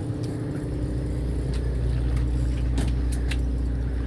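Fishing boat's engine running steadily, a low drone with a few light ticks over it.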